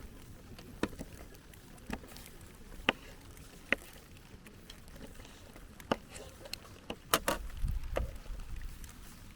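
Wood campfire crackling, with sharp pops at irregular intervals of about a second and a quick pair of pops a little after seven seconds. A low rumble comes in about three quarters of the way through.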